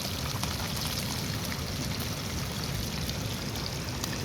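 Fish deep-frying in hot oil, the oil sizzling steadily with many small crackles.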